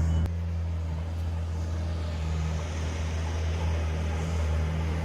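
Engine of a large vehicle running steadily, a low hum.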